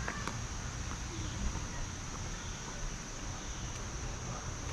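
Outdoor ambience: a steady, high-pitched chorus of insects, with a low rumble underneath and a few faint clicks.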